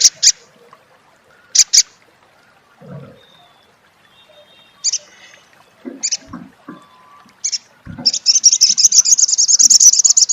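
Sunbird (sogon) calling: a few sharp, high chips, one of them doubled, then a fast, loud chattering trill ('crecet') for the last two seconds or so.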